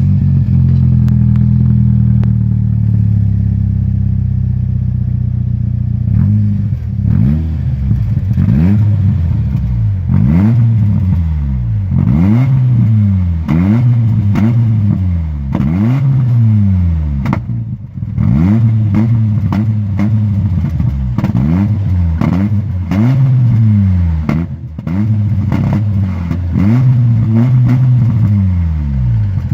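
Peugeot 605 2.0 Turbo's turbocharged four-cylinder engine and exhaust idling steadily, then revved in quick repeated blips from about six seconds in, each rising in pitch and falling back toward idle.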